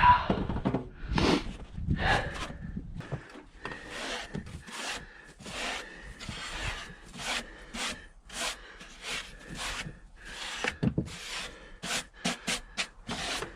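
An irregular run of short scraping and rubbing noises, a couple a second, coming closer together near the end.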